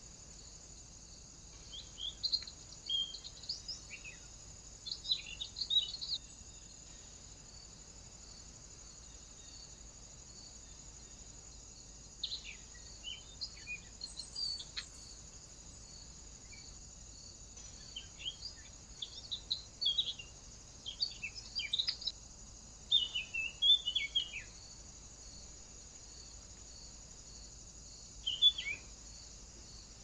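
Wild birds giving short, thin, high chirps and falling call notes in scattered clusters, over a steady high-pitched background buzz.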